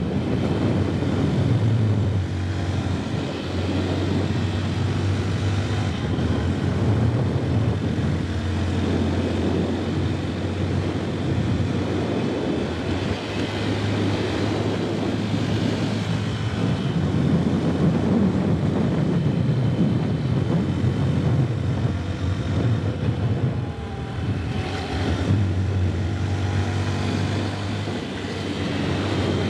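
Small 150cc motorcycle engine running at a steady cruising speed, its pitch easing off and picking up again now and then, under a constant rush of wind noise.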